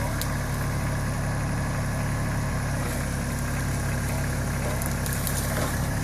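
Tractor engine running steadily at an even, low speed.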